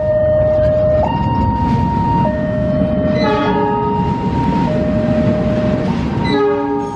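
Level-crossing warning alarm sounding a steady two-tone signal, alternating between a low and a high note about once a second, over the low rumble of a passing train. The train's horn gives two short blasts, about three seconds in and near the end.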